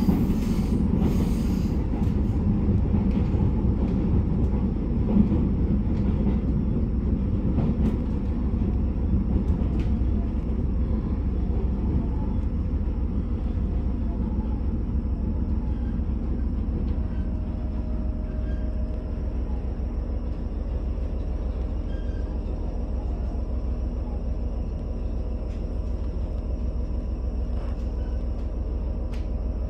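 Steady low rumble of a diesel train running, heard from inside the passenger car. It eases off gradually in the second half as the train slows into a station, and a faint steady whine comes in partway through.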